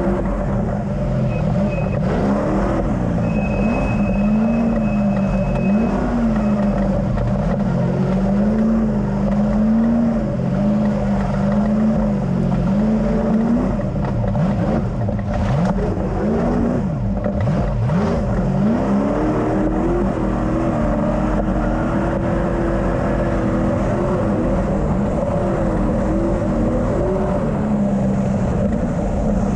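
Ultra4 off-road race car's engine revving up and down again and again as it is worked over terrain, over a steady low engine drone.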